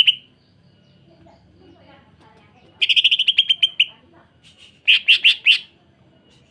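Green leafbird (cucak ijo) giving its harsh rapid 'sewing machine' rattle, a burst of about a dozen quick notes, followed a second later by four sharp loud notes.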